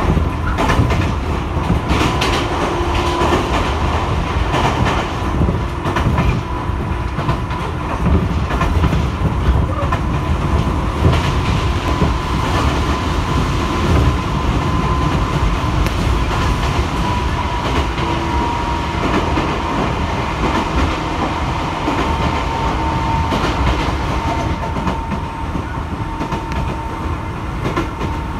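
Running noise inside a 205-series electric commuter train at speed: a steady rumble of wheels on rail with scattered clacks at the rail joints. A steady high whine runs through it and sinks slightly in pitch over the second half.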